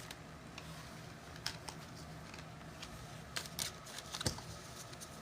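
Faint scattered clicks and taps of trading cards and their packaging being handled, over a low steady hum.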